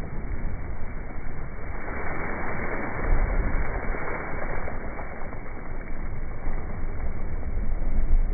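Wind noise on the microphone mixed with water rushing and splashing, aboard a Laser dinghy sailing upwind; a steady noise with a low rumble, growing louder about two seconds in.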